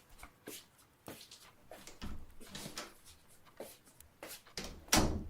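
Soft footsteps and small knocks in a small room at irregular intervals, with a louder thump about five seconds in, like a door or cupboard shutting.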